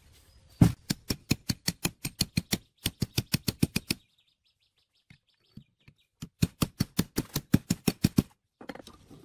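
Rapid, evenly spaced knocks, about six a second, in two runs with a pause of about two seconds between them.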